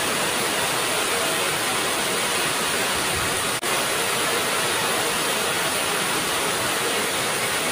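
Heavy rain falling as a steady, even hiss, with a momentary drop-out a little before halfway through.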